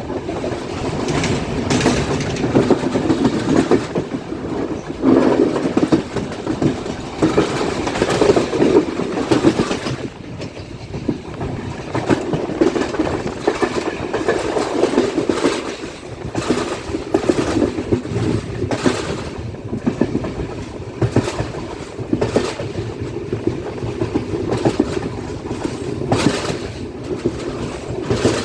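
Passenger train running along the track: a steady rumble with the wheels clacking over rail joints at irregular intervals.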